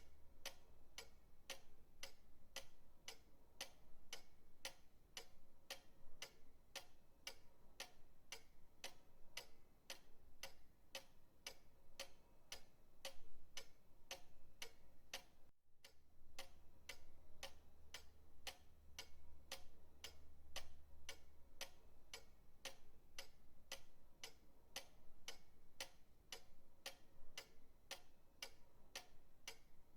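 Pendulum clock ticking steadily, about two ticks a second, with a momentary break about halfway through.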